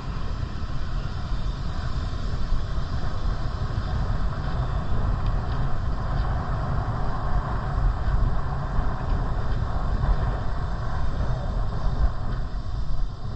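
Wind rumbling on the microphone of a moving bicycle, with a steady rushing noise.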